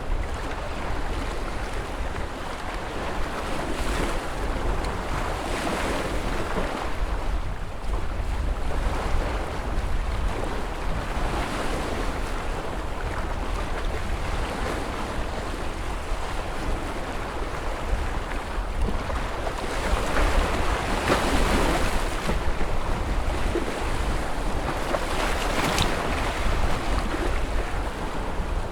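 Ocean surf: waves breaking and washing in one after another over a steady low rumble, with wind noise on the microphone.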